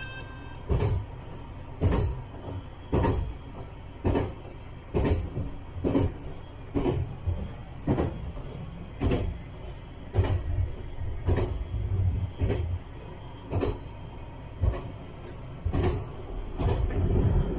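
Izukyu Resort 21 train's wheels knocking over rail joints about once a second over a steady low running rumble, heard from inside the carriage.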